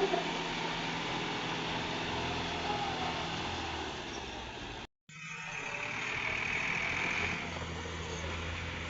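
Tractor engine running steadily, cutting out briefly about five seconds in.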